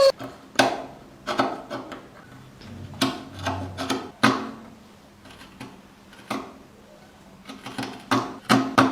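Hand tools working wood: irregular sharp knocks and scrapes, a few a second at times, bunching more thickly near the end.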